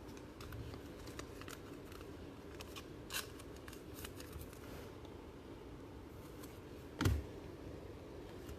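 Faint handling of trading card packs and cards: soft scrapes and scattered light clicks, with one thump about seven seconds in.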